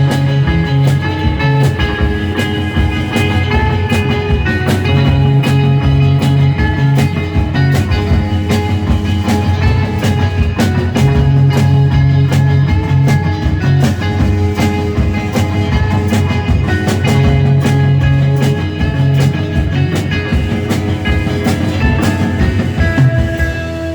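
Live rock band playing an instrumental passage: electric guitar, bass and drum kit with a steady beat and a repeating bass figure, without singing.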